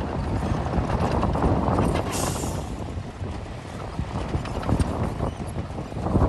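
Heavy earthmoving machinery running, a deep engine rumble over a rapid, irregular clatter of knocks like crawler tracks clanking, with a short hiss about two seconds in.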